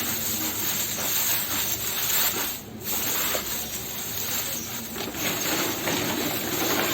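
Dry straw rustling and crackling as handfuls are spread into a nesting box.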